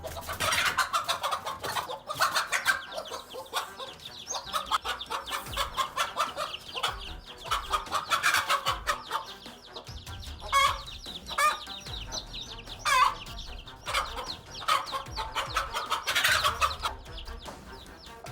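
Hen clucking in a long run of short calls.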